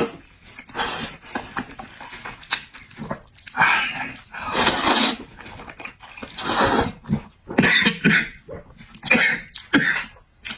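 A person eating spicy glass noodles: a run of loud, noisy slurps and mouth sounds, about a dozen short bursts with brief gaps between them.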